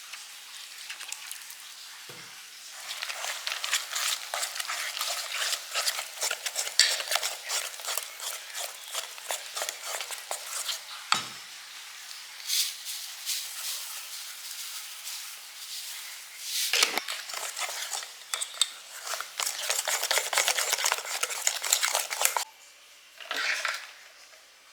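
A utensil stirring rapidly in a bowl, clicking against its side, most likely mixing pancake batter. It starts a couple of seconds in, pauses twice with a low knock each time, and stops shortly before the end.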